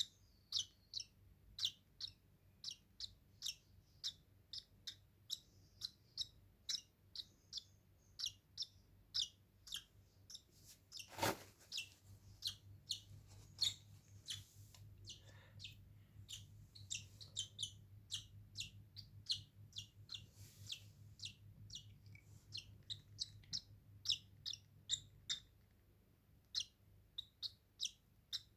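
A baby bird chirping over and over, short high peeps about two a second: the begging calls of a nestling being hand-fed. One sharp knock sounds about eleven seconds in.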